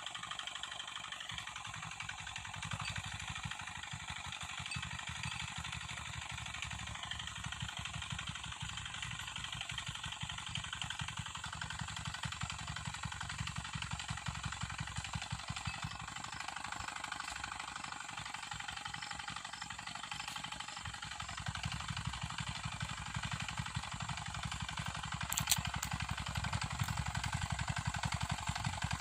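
Engine of a small homemade tractor running steadily with a rapid, even firing beat, growing louder about three-quarters of the way through, with one sharp click shortly after.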